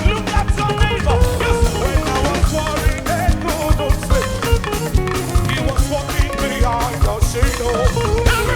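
Live band music with a fast, steady drum-kit beat and a wavering sung melody, in an upbeat African-style gospel praise groove.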